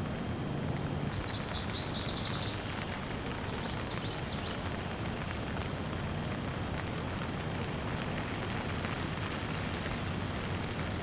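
Steady rain falling, with a songbird singing a quick trill of high notes about a second in and a short second phrase near four seconds.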